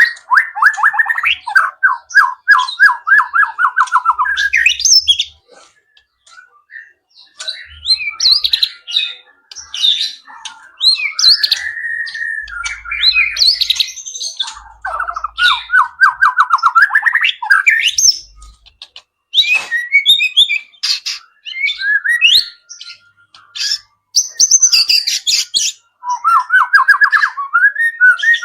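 White-rumped shama (murai batu) singing a varied song full of mimicked wild-bird calls: fast trilled runs that rise at the end, alternating with assorted whistled and chirped notes, with a short pause about five seconds in.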